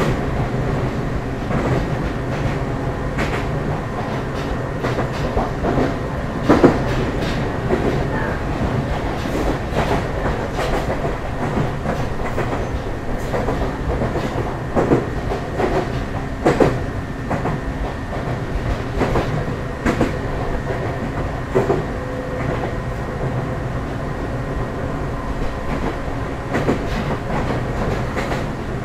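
Ryutetsu 5000-series electric train running at speed, heard from inside the car: a steady rumble and hum, with irregular knocks as the wheels cross rail joints. The loudest knock comes about six and a half seconds in.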